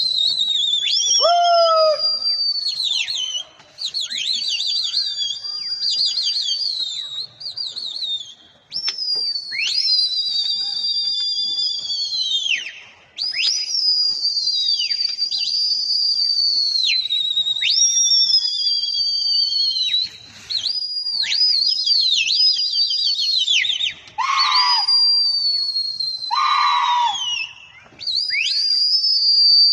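Loud, shrill human whistling: long held high notes, each dipping away at its end, repeated again and again with short breaks. This is a pigeon keeper's whistle for flying his pigeons. Two lower, rougher bursts come near the end.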